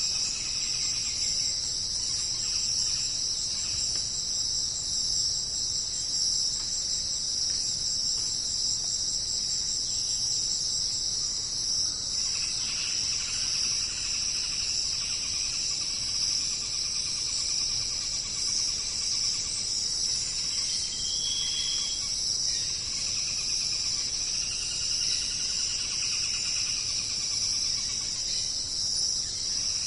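Jungle insect chorus: a dense, steady high-pitched trilling and buzzing, with a few shorter, lower calls rising over it in the middle and toward the end.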